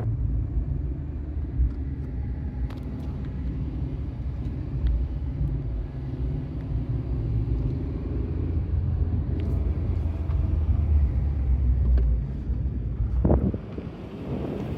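Car running, a steady low rumble with a faint engine hum and a few small clicks; the rumble drops away near the end.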